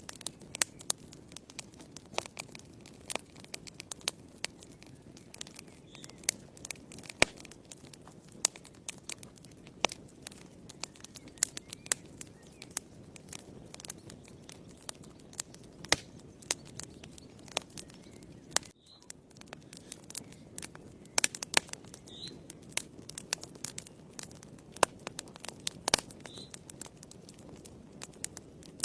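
Wood fire in a fireplace crackling: a steady low rush of flame with frequent sharp pops and snaps at irregular times, and a brief lull about two-thirds through.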